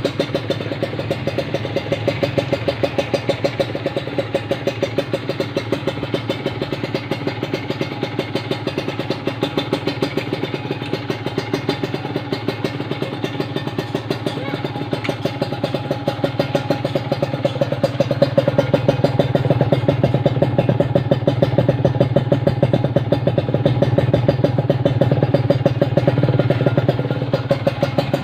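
Kawasaki Ninja RR two-stroke single-cylinder engine running steadily through an AI Tech racing exhaust repacked with fresh glasswool, with an even rapid pulse. It runs a little louder from about two-thirds of the way through, then eases back near the end.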